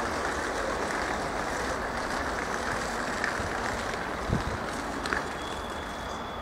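Passenger train rolling away over station points, a steady rumble of wheels on rail with a few short knocks, the strongest just past four seconds in. A faint thin high tone joins about five seconds in.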